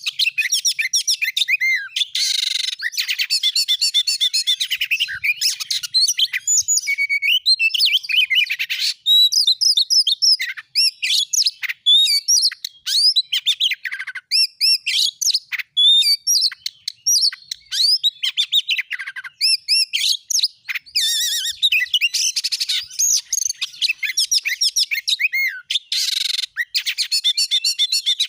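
Oriental magpie-robin singing continuously in fast, rapid-fire phrases of varied whistles, trills and chattering notes, with short breaks between bursts.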